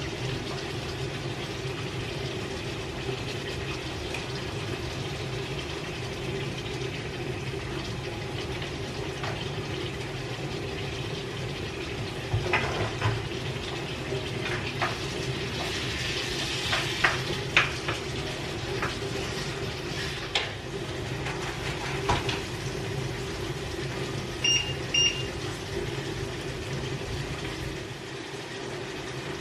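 Chicken and vegetables sizzling in butter and oil in a pot over a steady hum, with clinks and knocks of a utensil against the pot from about halfway through. Two short electronic beeps near the end.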